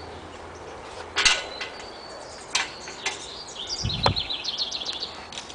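Small birds chirping outdoors, with a quick run of repeated high notes near the end, over a few short scuffs and knocks, the loudest about a second in.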